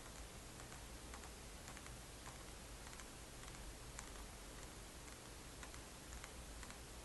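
Faint, irregular light clicks and ticks, a few a second, over a steady hiss, from small hard objects being handled close to the microphone.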